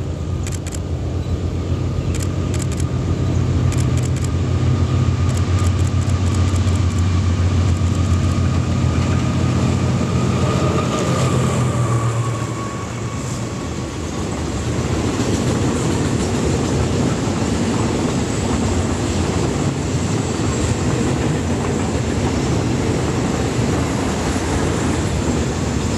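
Diesel freight locomotive drawing near and passing, its engine hum loud for the first half, then a long train of loaded container flat wagons rolling past with a steady rush of wheels on rail.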